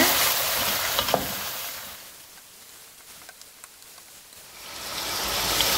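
Chicken pieces frying in hot oil in a large pot, a steady sizzle with a click of the ladle about a second in. The sizzle fades away about two seconds in and fades back up near the end.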